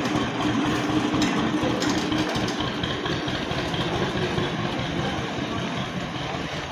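Tractor's diesel engine running at low revs while it reverses a loaded sand trolley, the sound slowly fading.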